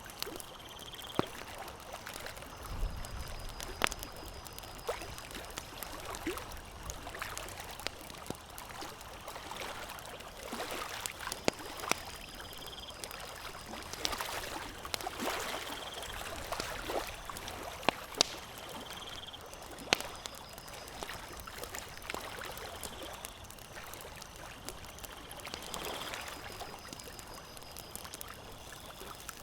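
Campfire crackling: a steady hiss with frequent sharp pops and snaps of burning wood. Faint short high tones recur every few seconds.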